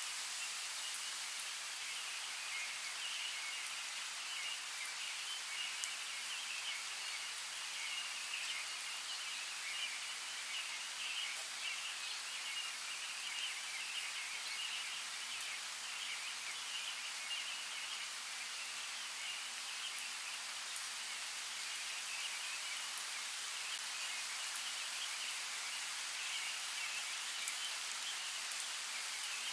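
Steady rain falling: an even hiss, with faint scattered drop ticks and no change in strength.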